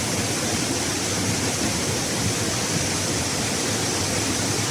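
Steady rush of a forest waterfall and its fast, forceful stream of water pouring over rocks.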